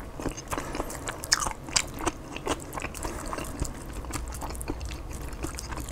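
Close-up chewing of a chicken-and-lettuce burrito bowl, mukbang style: a string of irregular crunchy bites and wet mouth clicks.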